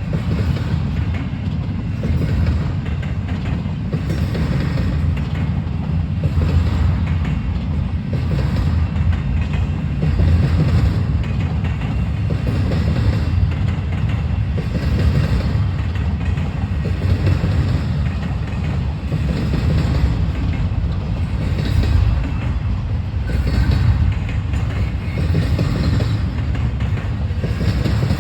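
Freight train cars rolling past with a steady low rumble, the wheels clicking over rail joints at a regular beat.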